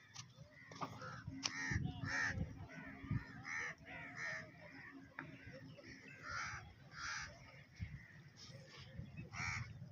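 Birds calling: a long run of short, harsh calls repeated many times, with a few low thumps in the first few seconds.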